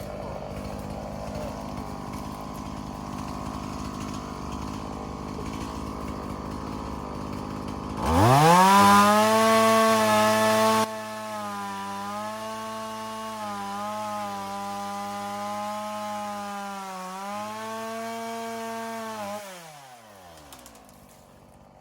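Two-stroke chainsaw revving up sharply to full throttle about eight seconds in and cutting at a high, steady pitch that dips briefly under load twice, then the throttle is released and the engine winds down near the end.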